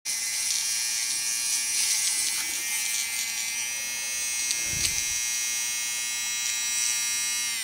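Steady, high-pitched electric motor whine that starts abruptly and cuts off suddenly.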